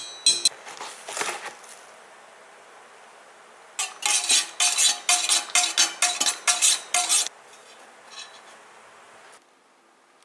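A metal spoon clinking against a cup or bowl: a few ringing clinks at the start, then about a dozen quick, rhythmic taps in a row from about four seconds in, like a drink being stirred.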